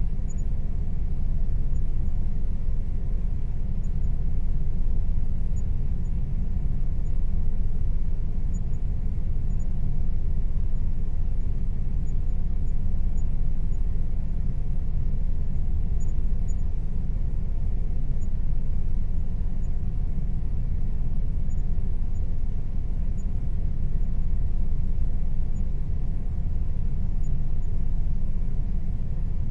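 Air conditioner running steadily: a constant low rumble with a faint steady hum above it.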